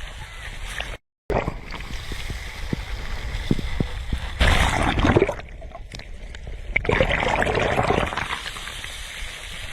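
Sea waves washing onto the shore, with two louder swells of surf, about four and a half and about seven seconds in. The sound drops out briefly about a second in.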